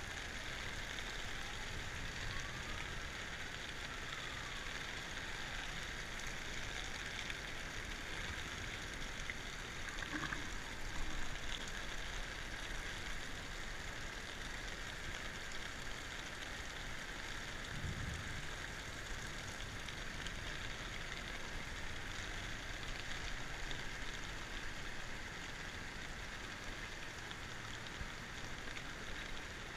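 Creek in flash flood: a steady, even rush of floodwater, with one brief low thump past the middle.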